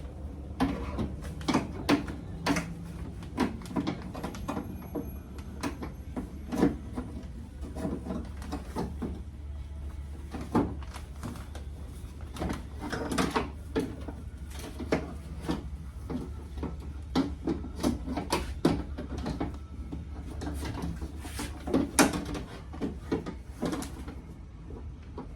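Irregular clicks, knocks and clatter of metal and plastic door parts being handled while the window glass and regulator are fitted back into a pickup truck's door, over a steady low hum.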